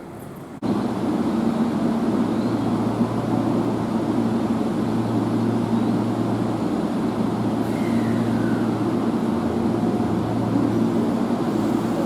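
Seibu 6000 series electric train running, a steady rumble with a low, even hum; the sound cuts in abruptly about half a second in.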